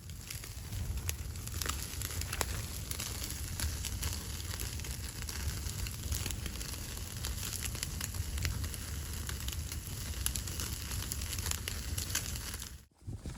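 Wood fire crackling and popping in irregular sharp snaps over a steady low rumble, breaking off briefly near the end.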